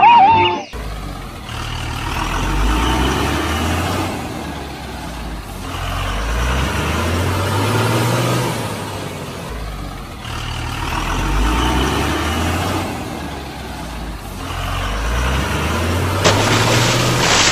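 Vehicle engine sound revving up and settling back over and over, its pitch rising about every four seconds.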